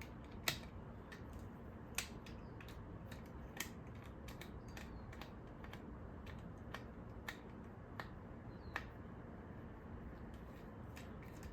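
Scattered light clicks and taps of a screwdriver and screw against the plastic housing of a Roomba wheel module as a stuck screw is pushed out from the other side.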